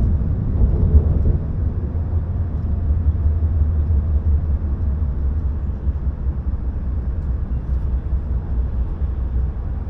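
Steady low rumble of a JR East E5 Shinkansen running on the line, heard inside the passenger car.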